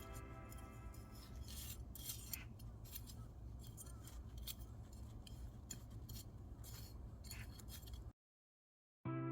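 Wood fire crackling in a wood-burning stove: scattered sharp pops and snaps over a steady low rumble. It cuts off suddenly about eight seconds in, and music starts again just before the end.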